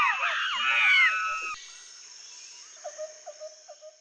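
Monkeys calling loudly: many overlapping calls that glide up and down in pitch, cutting off abruptly about one and a half seconds in. Then a quieter rainforest background with a brief run of quick, evenly spaced low calls near the end.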